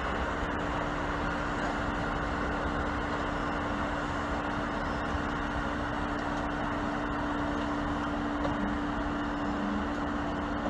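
Off-road Jeep's engine running steadily under a steady hum, the vehicle being backed up off a ledge.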